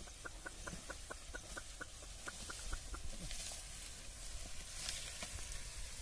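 A bird calling: a quick run of short, evenly spaced notes, about five a second, lasting nearly three seconds.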